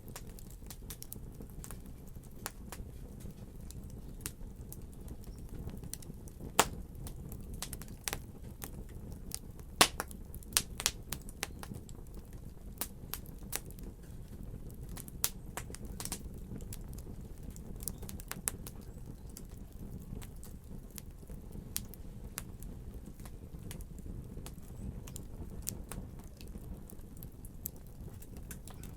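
Wood fire crackling, with irregular sharp pops and snaps over a steady low rumble of burning. The loudest pops come about six seconds in and in a cluster around ten seconds.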